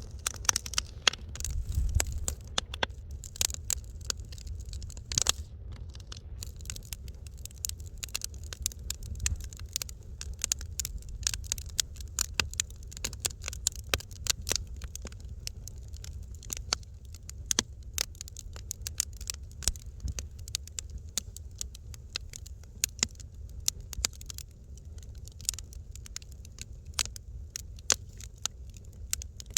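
Wood fire crackling in a fireplace: irregular sharp pops and snaps, many each second, over a low steady rumble of the flames.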